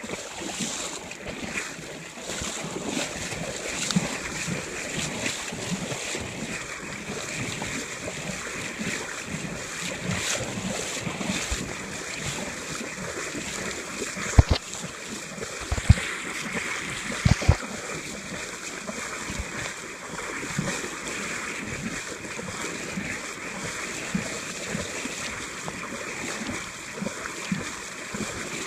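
Fast-flowing river water rushing and splashing as people wade through it waist-deep against a strong current, with a few sharp knocks about halfway through.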